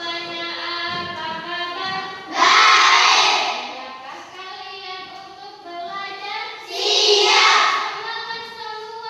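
A group of children singing together, held sung notes throughout, with two louder, rougher stretches of about a second each, roughly four seconds apart.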